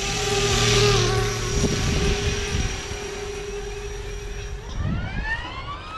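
Electric motor and rotor head of a 450-size RC scale helicopter starting to spool up: a whine with several pitches rising together from about five seconds in, after a steady hum.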